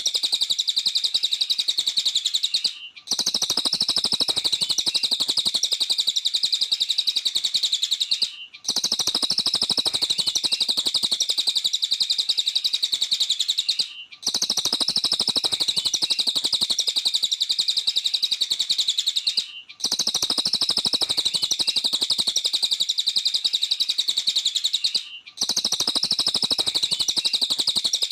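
Cililin, a small Indonesian songbird, singing in full voice: a rapid, continuous, high-pitched chattering song. It comes in repeated stretches about five seconds long, broken by brief silences.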